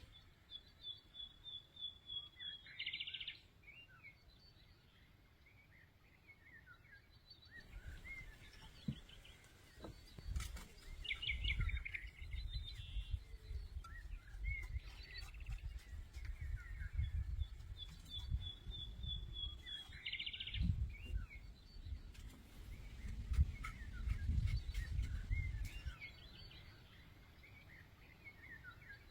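Songbirds singing: a high trilled phrase that ends in a buzzy flourish comes twice, about a second in and again near 19 seconds, with scattered chirps between. A low rumbling noise comes and goes from about eight seconds in until near the end.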